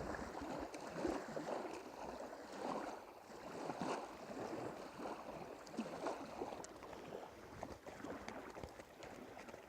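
Irregular water sloshing and splashing, with a few light clicks.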